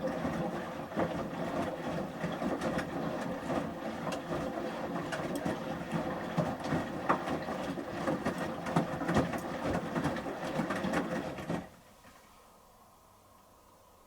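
Samsung front-loading washing machine's drum turning for about twelve seconds during the heated wash, shirts and water tumbling and sloshing, then stopping abruptly.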